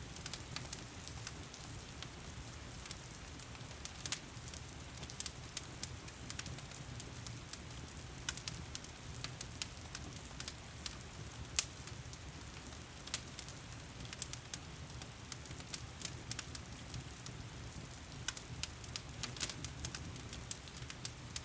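Wood fire crackling in a stone fireplace, with frequent sharp pops and snaps, over the steady hiss of heavy rain.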